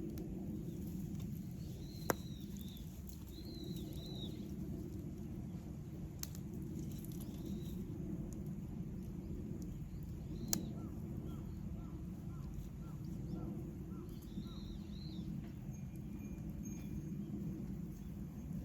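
Wood campfire burning with a low steady rush and two sharp pops, one about two seconds in and one just past the middle. Small birds chirp in the background, including a quick run of short repeated notes.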